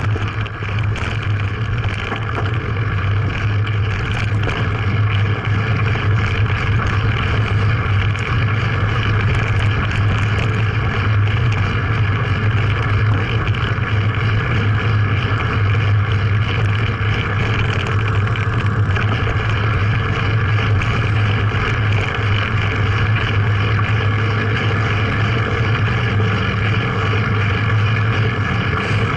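A steady engine drone at an even pitch, with no rise or fall in speed.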